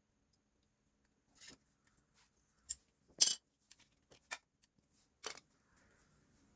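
Scattered sharp metallic clicks and clinks of hand tools and small metal parts being handled, about half a dozen separate ones, the loudest about three seconds in.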